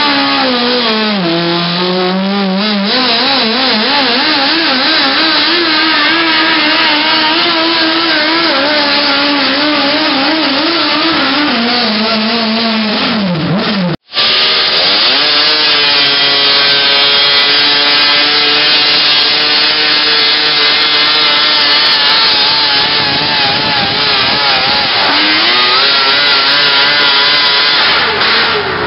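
Engine of a modified Outlaw Open class garden pulling tractor running hard under load during a pull, its pitch wavering, sagging and recovering as the sled drags on it. The sound cuts out suddenly about halfway and resumes at a steadier, higher pitch, as another pull.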